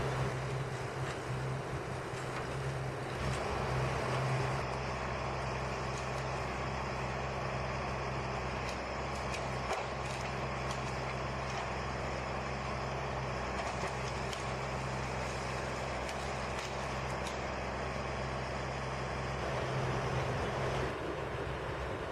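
Engine of a heavy machine running steadily with a constant low hum.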